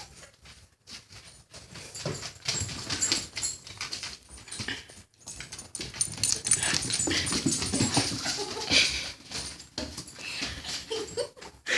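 A puppy making small whimpering sounds, coming and going in short bursts.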